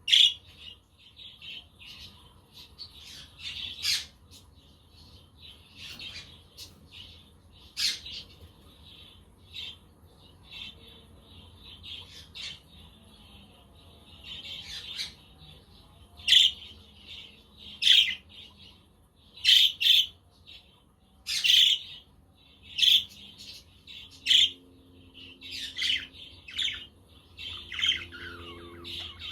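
Budgerigars chirping and chattering: a steady run of short, high calls broken by sharper, louder chirps every second or so, with a falling warble near the end.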